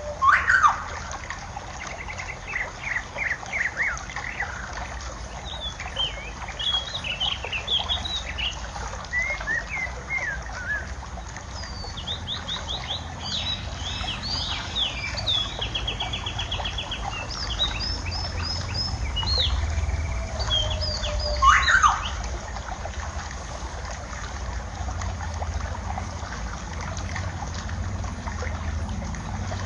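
Several small birds chirping and trilling over a steady trickle of water; the calls come thick in the first two-thirds, with two sharp, loud calls near the start and about 21 seconds in, then thin out. A low wind rumble grows stronger in the second half.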